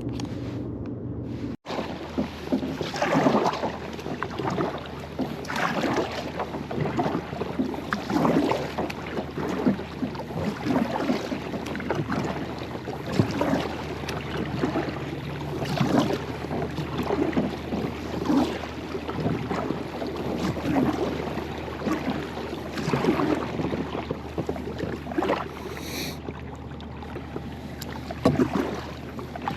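Kayak paddle strokes dipping and pulling through the water, repeating about every two seconds, with wind on the microphone.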